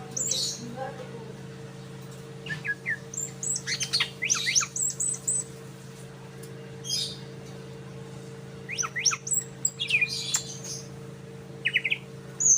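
A cucak ijo (green leafbird) singing in short groups of quick, high chirps and sweeps, copying the song of the sikatan londo flycatcher. A steady low hum runs underneath.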